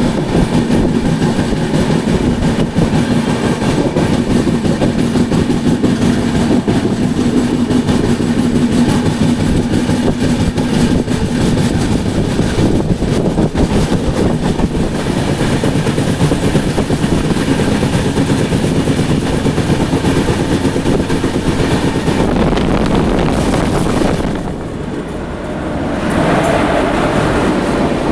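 Express train running at speed: a loud, steady rumble and rapid clatter of wheels on the rails. It turns briefly quieter about 24 seconds in, then grows loud again.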